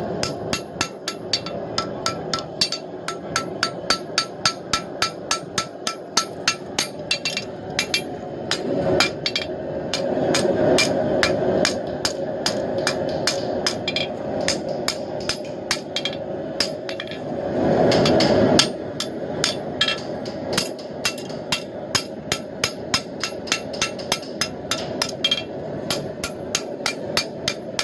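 An 800 gram hand hammer strikes hot blade steel on an anvil in rapid, even blows, several a second, with a ringing tone in the first several seconds. Behind the hammering a rushing noise swells up twice, loudest a little past halfway.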